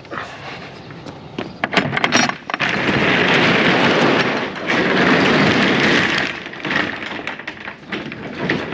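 Metal roll-up rear door of a box trailer being opened: a few clacks, then a long, loud rattle as the door runs up.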